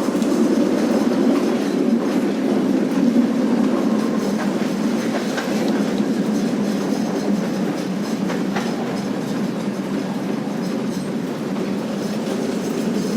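Old tram running along its track: a steady rumble of wheels on rail with a few light clicks over the joints. The track is worn and badly maintained.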